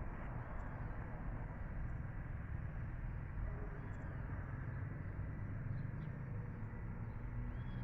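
Outdoor ambience: a steady low rumbling noise, with a few faint, short high chirps from birds.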